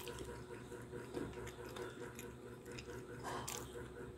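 Faint close-up mouth sounds of a man chewing food, over a steady background hum.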